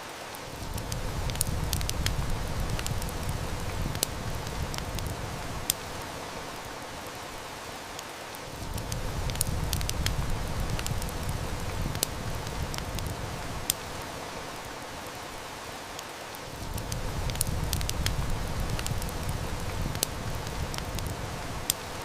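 Heavy rain hissing steadily with a wood fire crackling and snapping in sharp, scattered pops. A low rumble swells up and fades three times, about every eight seconds.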